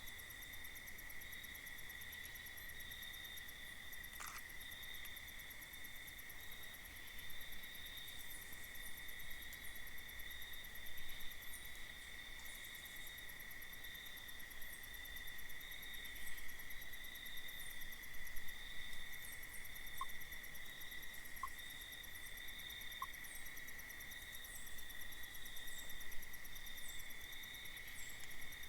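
Night insects, crickets by the sound of it, trilling steadily in a continuous high chorus. Faint short high chirps recur now and then, and three faint brief blips come about two thirds of the way in.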